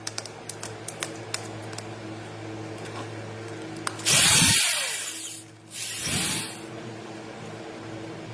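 A small electric motor running with a steady hum, with a few faint clicks in the first two seconds. About four seconds in, a loud hissing rush lasts over a second, and a shorter, quieter one follows about six seconds in.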